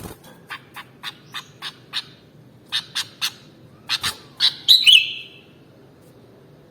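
Sooty-headed bulbul calling: a run of about a dozen short, sharp chirps over the first four seconds, closing in a louder, fuller phrase about five seconds in.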